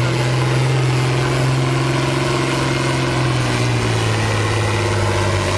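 Pulling tractor's engine running steadily, then its note drops lower near the end.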